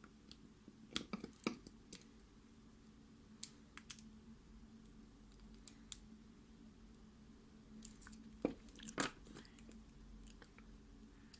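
Faint, scattered clicks and scrapes of small metal tools and parts working on a Mul-T-Lock MT5+ lock cylinder, with a cluster about a second in and another louder one late on, over a steady low hum.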